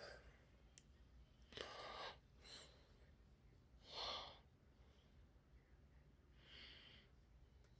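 Near silence, broken by about four faint, short breathy hisses.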